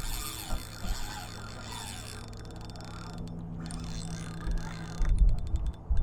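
Fishing reel clicking and grinding as a hooked fish is fought on the line, with a few low thumps about five seconds in.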